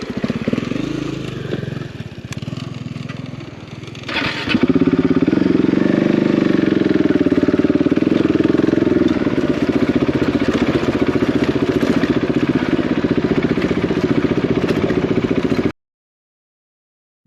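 Single-cylinder trail motorcycle engine running at low revs, then opened up about four seconds in to a strong, steady pull under load. It cuts off abruptly near the end.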